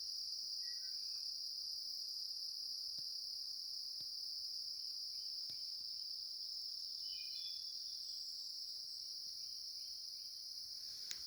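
Steady, high-pitched chorus of insects, crickets by their sound, trilling without a break, with a few faint short chirps mixed in.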